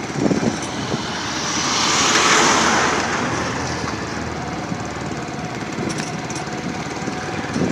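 Vehicle engine and road noise while travelling along a road: a steady running sound that swells for a second or so about two seconds in, then settles back.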